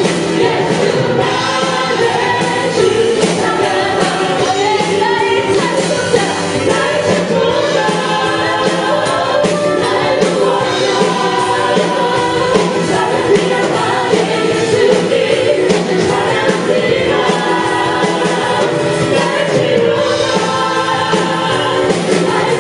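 Live contemporary worship music: a praise band playing with a group of singers and the congregation singing along.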